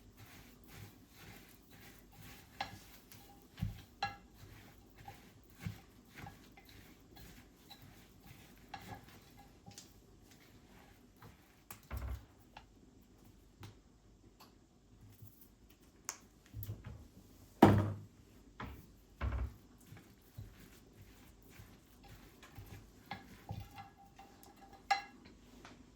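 Dishes and cutlery being handled: scattered clinks and knocks of crockery and utensils on a kitchen counter. The loudest knock comes about two-thirds of the way through, and a clink with a short ring comes near the end.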